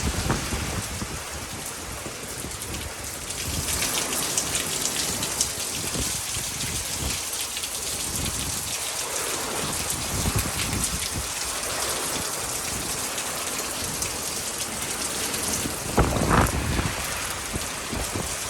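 Heavy hurricane rain falling steadily, growing heavier about three and a half seconds in, with a brief louder surge near the end.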